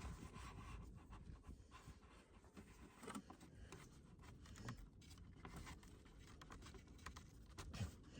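Faint rustling and scraping of flexible PEX plastic water tubing being handled and pushed into place, with a few light knocks.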